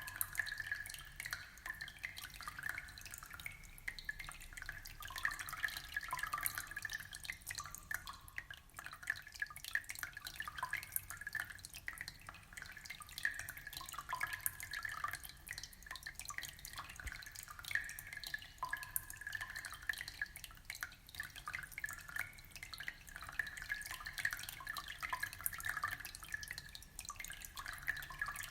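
Aquarium water trickling and dripping steadily: a continuous stream of small plinks and splashes.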